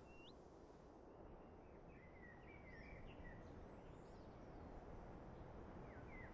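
Faint wild bird calls: a single short rising call at the start, a run of short chirps a couple of seconds in, and more chirps near the end, over a soft natural background hiss.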